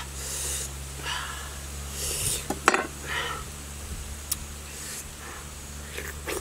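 Crisp fruit being chewed and sliced with a knife: a few short crunching bursts about a second apart, with a sharp click about halfway through.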